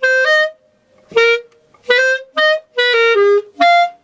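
Solo clarinet playing the first clarinet part of a band piece: a phrase of short, separated notes, about nine in all, moving up and down in pitch in small groups with brief gaps between them.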